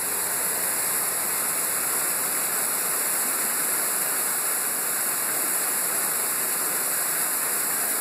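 Small waterfall pouring over rock and splashing into the water below: a steady rush of falling water.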